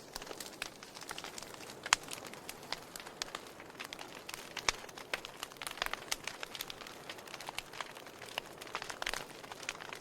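Wood fire burning in a fireplace: a soft steady hiss under irregular crackles and sharp pops of burning logs, with a few louder pops scattered through.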